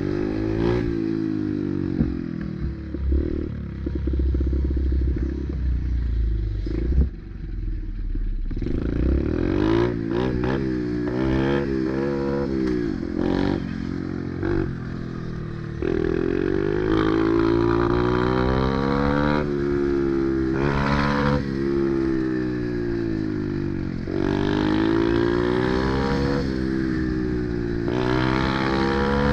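Pit bike engine being ridden hard, its pitch climbing and dropping again and again as the throttle is opened and closed through gear changes.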